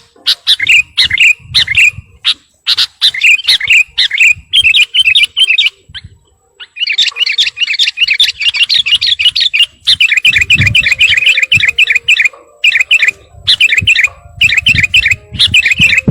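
Sooty-headed bulbul singing loudly in quick runs of short, clear chirping notes, with a brief pause about six seconds in followed by a few seconds of dense, rapid chattering.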